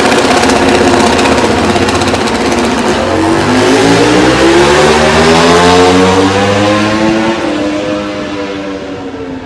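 MotoGP racing motorcycle accelerating hard past the trackside: its engine note climbs steadily in pitch, is loudest a little over halfway through, then eases off and fades as the bike pulls away.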